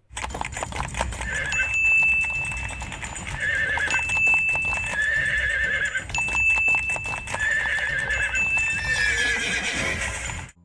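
Horse sound recording: hooves clip-clopping with several whinnies, starting and cutting off abruptly.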